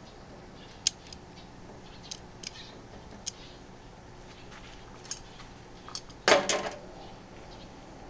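Scattered sharp clicks and light taps, then a louder short clatter about six seconds in, like small objects or utensils being handled.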